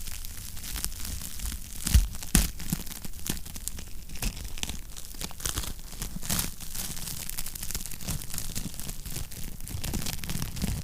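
Wood fire crackling in a fireplace: a dense run of small pops and snaps over a low rumble, with two louder pops about two seconds in.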